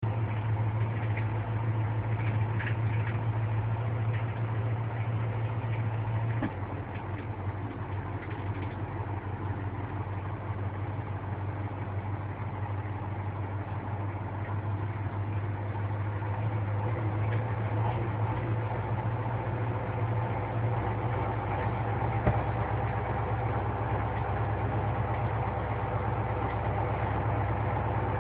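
Semi-truck engine running with a steady low drone. It gets a little quieter about six seconds in, then gradually builds back.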